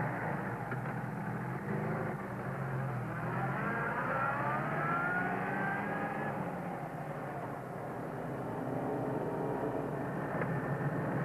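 Car engine running and accelerating, its pitch rising in a whine for a few seconds partway through.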